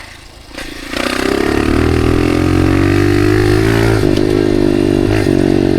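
Dirt bike engine, low for about a second, then opening up and running hard and steady under throttle, with brief dips about four and five seconds in.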